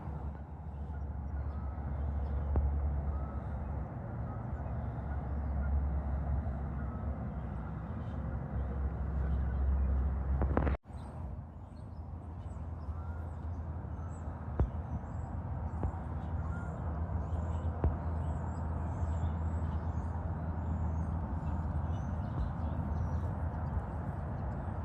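Interstate highway traffic, a steady rumble of trucks and cars passing with tyre and engine noise. It cuts off for an instant about eleven seconds in, then carries on.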